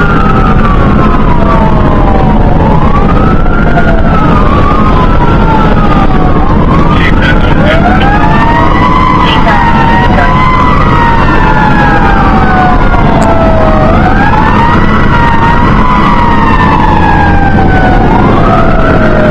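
Fire engine running with its siren wailing, rising and falling in pitch every few seconds, with the sweeps of more than one siren overlapping, over a steady low engine and road rumble.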